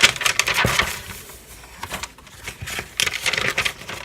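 Sheets of paper rustling and crackling as they are handled and shuffled, a run of quick sharp rustles loudest in the first second.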